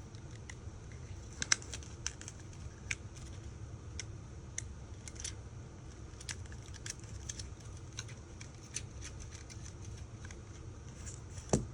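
Irregular light clicks and ticks of small repair tools on the screws and metal parts inside an iPhone 5, with a sharper click near the end, over a low steady hum.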